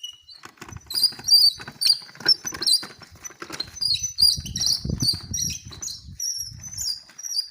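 Many short, high-pitched squeaks and chirps from one or more small animals, coming in quick succession, with some low thuds mixed in around the middle.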